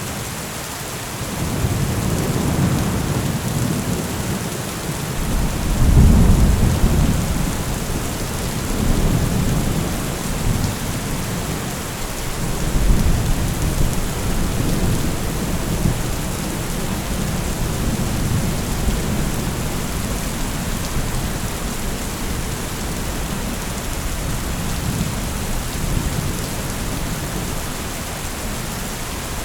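Steady rain falling, with rolling thunder rumbling low beneath it; the rumble swells loudest about six seconds in and again around thirteen seconds, then continues as a softer roll.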